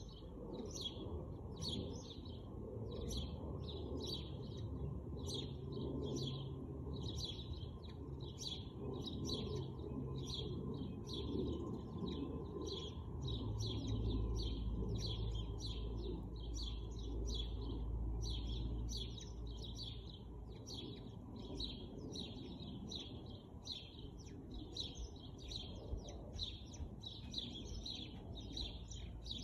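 A bird chirping over and over, about two or three short high chirps a second, above a steady low rumble of outdoor background noise.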